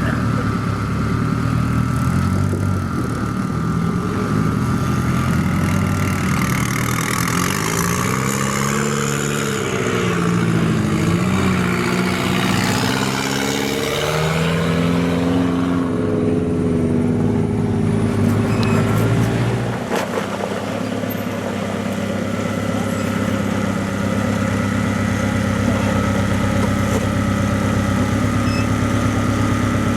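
Rock crawler's engine revving up and down in repeated swells for several seconds, then settling into a steady idle about two-thirds of the way through.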